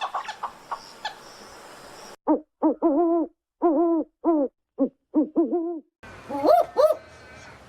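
An owl hooting: a run of about ten short hoots, some clipped and some slightly longer, each rising and falling slightly in pitch. A louder pair of rising calls follows near the end.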